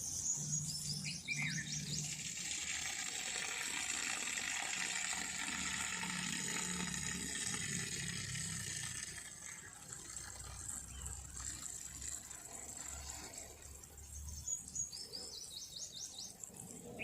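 Running water with birdsong: a bird gives a quick run of high chirps near the start and again near the end, over a steady watery hiss that softens about halfway through.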